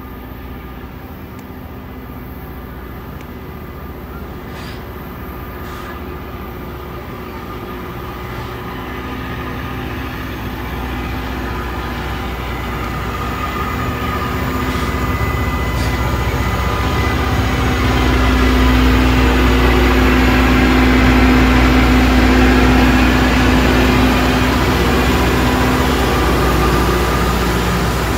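Loram rail grinder train approaching and passing at close range: its diesel engines run with a steady hum that grows steadily louder, peaking about two-thirds of the way through as the power cars go by, then easing slightly.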